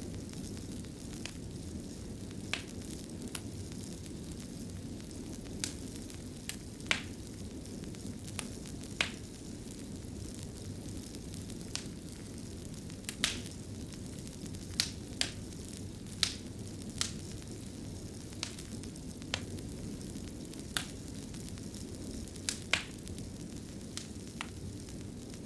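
Fire crackling in a fireplace: a steady low rumble of burning with irregular sharp crackles and pops, roughly one every second or so.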